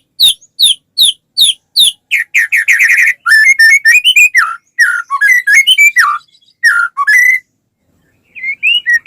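White-rumped shama (murai batu) singing: a run of repeated rising whistled notes, about two and a half a second, then a quick trill and a string of varied warbling phrases, a pause of about a second, and a few short notes near the end.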